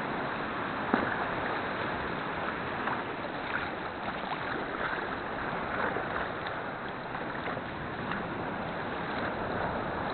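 Steady wash and splash of sea swell around a sea kayak, with faint small splashes here and there.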